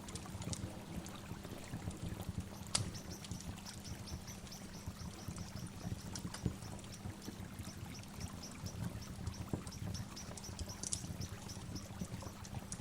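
Waterfall rushing steadily, with a bird repeating a short high chirp about three times a second from a few seconds in.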